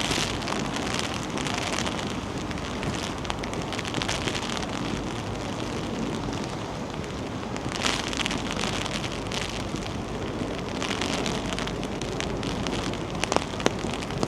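Steady rain pattering, with wind buffeting the microphone in a low rumble that gusts harder near the end.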